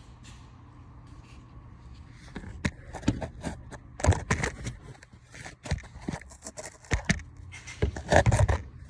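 Irregular knocks, clicks and scrapes of hard objects being handled, starting about two seconds in, over a steady low hum.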